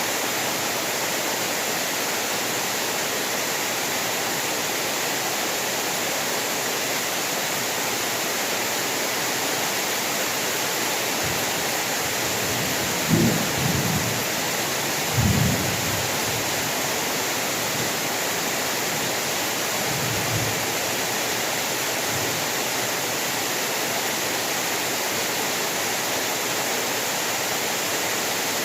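Heavy rain falling steadily. Low thunder rumbles about halfway through: two louder rolls close together, then two fainter ones.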